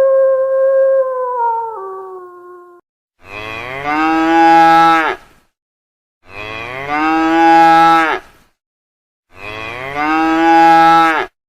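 A cow mooing three times, each moo about two seconds long and alike, rising at the start and then holding. Before them, a long howl-like call holds steady and drops in pitch as it fades out near three seconds in.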